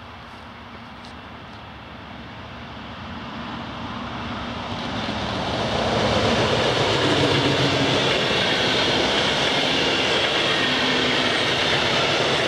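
Siemens ER20 Eurorunner (class 223) diesel-electric locomotive approaching and passing with a train of passenger coaches. The diesel engine grows steadily louder over the first six seconds or so, then the coaches' wheels run past on the rails in a loud, even noise.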